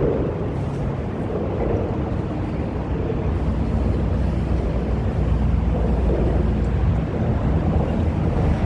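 Car engines running with a steady low rumble that grows stronger about halfway through, with wind noise on the microphone.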